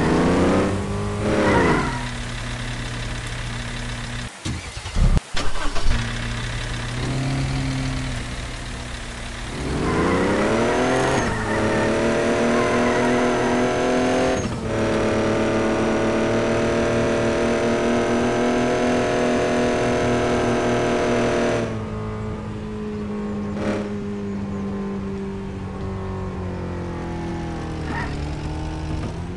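A vehicle engine revving: about ten seconds in it climbs sharply and holds at high revs with a thin high whine for roughly ten seconds, then drops back to a lower steady speed. A brief burst of loud crackling comes about five seconds in.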